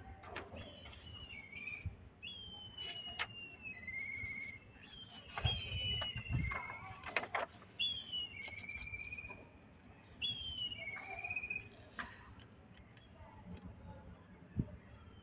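A bird calling repeatedly, several clear whistled notes that slide down in pitch. Paper rustles and knocks as sheets are handled on a clipboard.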